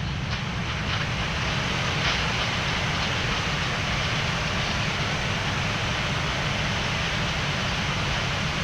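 Boeing 787-9 engines in reverse thrust with the airliner rolling down the runway after touchdown, a steady rushing roar heard on the flight deck, with a few faint clicks in the first couple of seconds.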